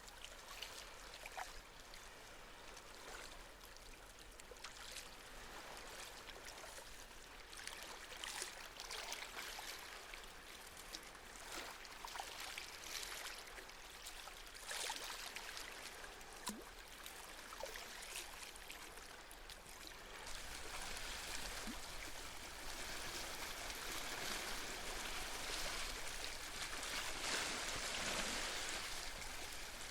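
Gentle sea waves washing on a shore. They grow louder about two-thirds of the way through as a bigger wave comes in.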